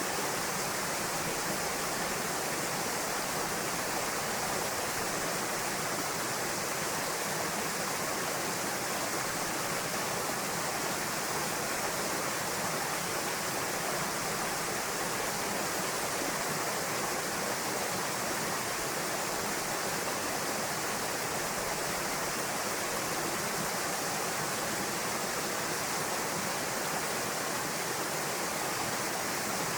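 Waterfall pouring steadily into a rock pool, an even, unbroken rush of falling water.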